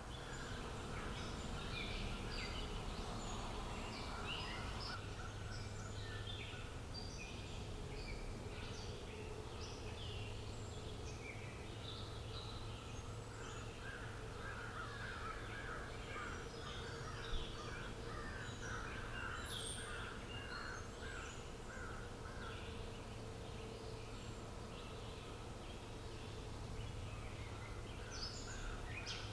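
Many wild birds chirping and calling at once in an outdoor nature ambience, over a steady low background hum. A single sharp click sounds just past the middle.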